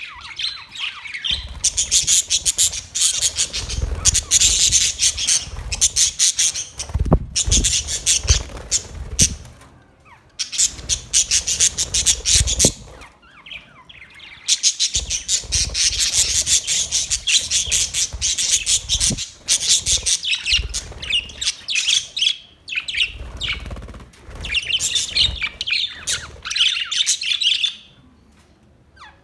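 A colony of white and green parrots chattering and squawking together in dense bouts, with short lulls between them.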